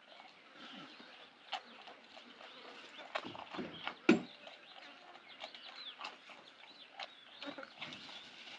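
Chickens clucking in a farmyard, with scattered short chirps and one sharp knock about four seconds in.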